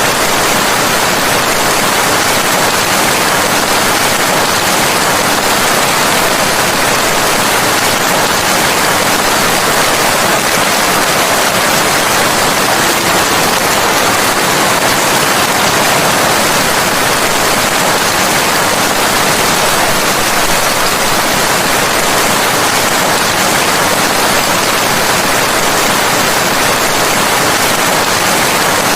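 Steady heavy rain: an even, unbroken hiss with no single drops, thunder or change in level.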